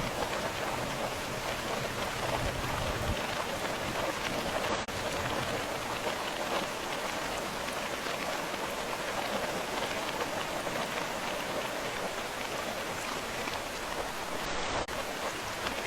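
Steady, continuous rain falling and pattering on a surface, an even hiss of many drops with no breaks.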